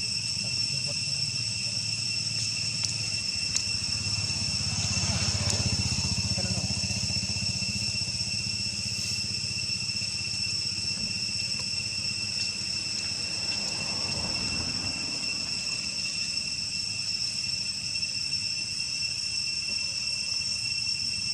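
Steady, high-pitched insect drone, with a low rumble under it and two vehicles passing, one about five seconds in and another around fourteen seconds.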